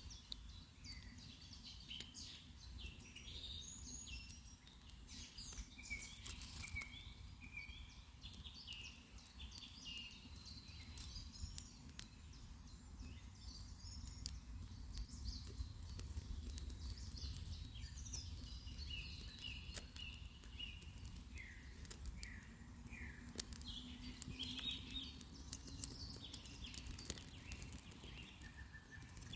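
Small birds chirping and singing in short repeated phrases, over a low steady rumble with scattered faint clicks.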